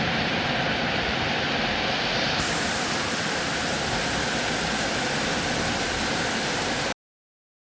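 Steady rain falling, an even hiss that turns brighter about two and a half seconds in and cuts off abruptly near the end.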